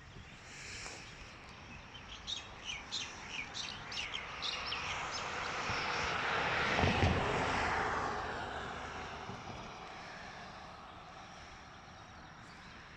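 A vehicle passing, swelling to its loudest about seven seconds in and then fading away. A bird chirps in a quick run of calls during the first few seconds.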